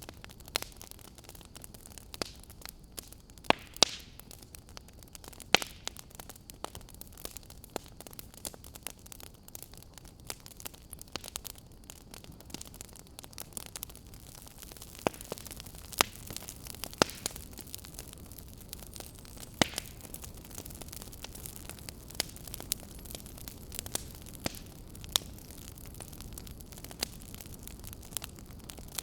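Wood fire in a fireplace crackling: irregular sharp pops and snaps over a steady low hiss.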